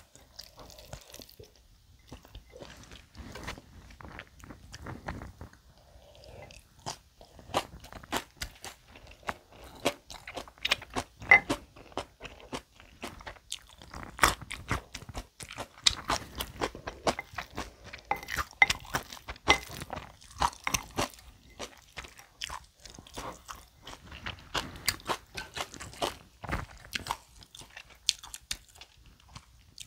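Close-miked eating of spicy mixed bibimbap: wet chewing and mouth sounds with many short crunches and clicks throughout.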